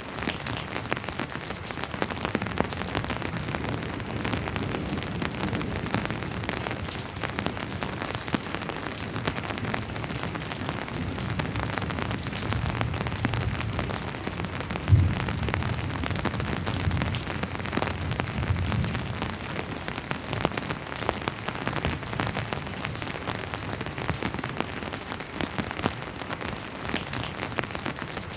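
Steady rain falling, with many individual drops ticking close by. About halfway through, a low rumble of distant thunder swells for several seconds, with one brief low thump that is the loudest moment.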